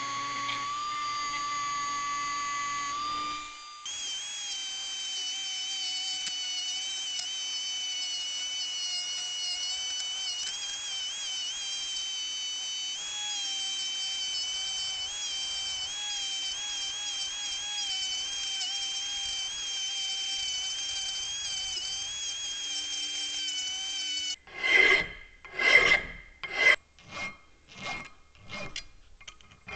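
A handheld rotary tool whines steadily as its small bit grinds the cast-iron frame of a Dake arbor press, the pitch wavering slightly under load. It stops a few seconds in and starts again at a higher pitch for about twenty seconds. Near the end a hand file rasps against the casting in about seven quick strokes.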